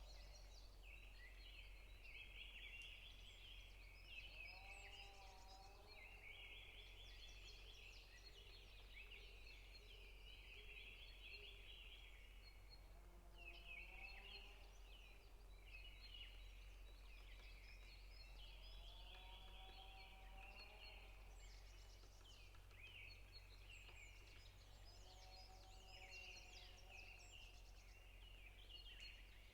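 Faint chorus of songbirds chirping in a forest: a dense, continuous chatter of quick, high notes. A lower, drawn-out call comes in about every six seconds.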